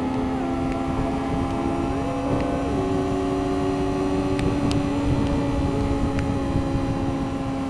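2009 Yamaha YZF-R6 inline-four sportbike engine holding a steady pitch while cruising at highway speed, with wind rushing over the microphone.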